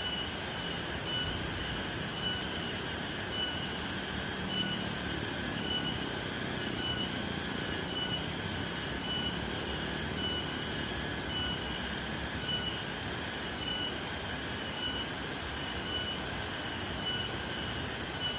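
Rushing water of a waterfall under a high-pitched, pulsing insect chorus that beats at about two pulses a second. The sound cuts off suddenly at the end.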